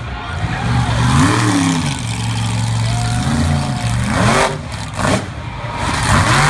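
Monster truck engines revving, the pitch rising and falling several times, with quick sharp blips of throttle about four and six seconds in.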